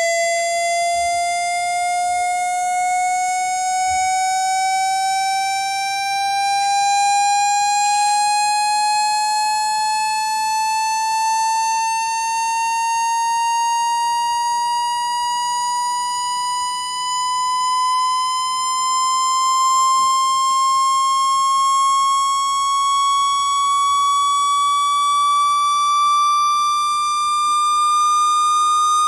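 Buzzy electronic test tone gliding slowly and steadily upward in pitch, a speaker water-ejection sound meant to vibrate water out of a phone's speaker grille.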